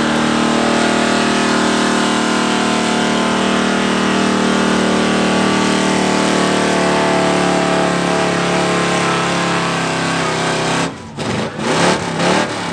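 A gas-engined street pulling truck running flat out under load as it pulls the sled, its engine note held high and steady. About eleven seconds in the engine suddenly backs off, then revs up again briefly two or three times.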